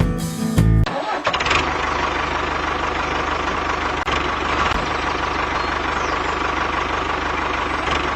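The small motor of a homemade mini tractor running steadily with an even buzzing whir, cutting in about a second in as the music stops.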